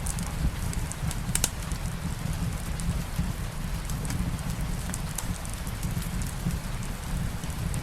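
Steady rain mixed with a crackling fireplace: an even low rumble and hiss with scattered sharp crackles and ticks.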